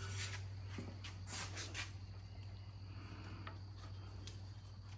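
Faint rubbing and light scraping as wood glue is applied and spread on the boards, over a steady low hum.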